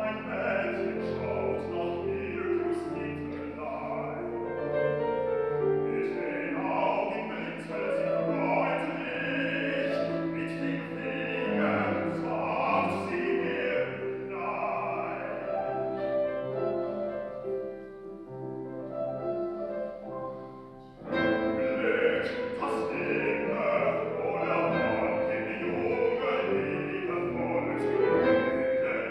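Baritone singing a German art song (Lied) with piano accompaniment. The music drops away briefly about twenty seconds in, then the voice and piano come back in strongly.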